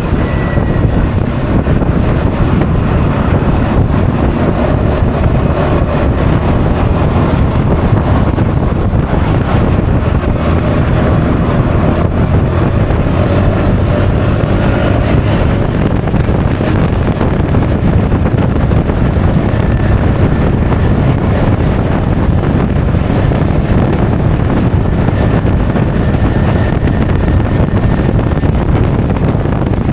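Steady wind noise buffeting an action camera's microphone while riding a Honda Forza 350 scooter, with the single-cylinder engine and tyre noise running underneath.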